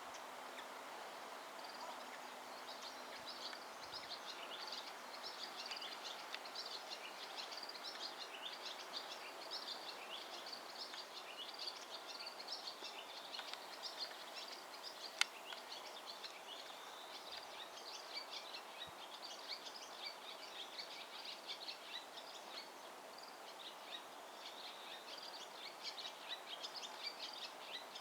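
Small birds chirping over and over against a steady outdoor background hiss, with a single sharp click about halfway through.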